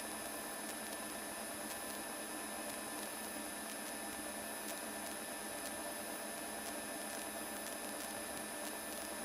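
Faint, steady electrical hiss and hum with thin whine tones on the cockpit intercom/radio audio feed, with no transmission on the channel.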